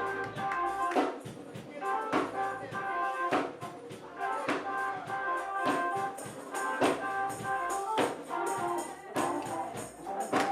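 Church music during a service: sustained chords held under a steady beat of sharp percussion hits, about one strong hit a second with lighter ones between.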